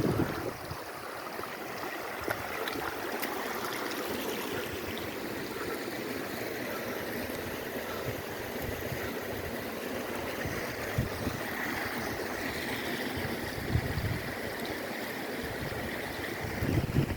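Flowing mountain water rushing steadily, with a couple of brief low gusts of wind on the microphone near the end.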